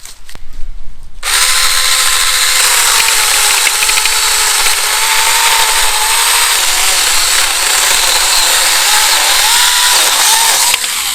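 Battery-powered 6-inch mini chainsaw cutting through a thick birch log, starting about a second in and stopping near the end. Its motor whine dips in pitch as the chain bogs under load and picks up again near the end; the log is thicker than the limbs the small saw is built for, so the cut is slow.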